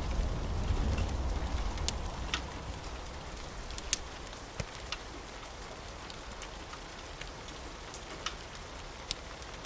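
Steady rain with the low rumble of thunder dying away over the first few seconds. A few sharp crackles, as from a wood fire, are scattered through it.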